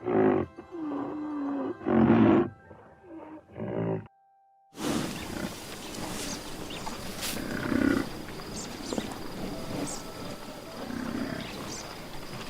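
A wild animal calling over and over, in short pitched calls for about four seconds. A brief silence follows, then a long stretch of hissing outdoor noise with a few fainter low calls.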